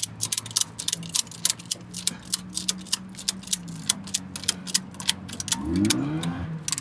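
Rapid, uneven ratchet clicking while the loose suspension from the broken ball joint is tied up, over a steady engine idle. The engine revs up briefly about five and a half seconds in.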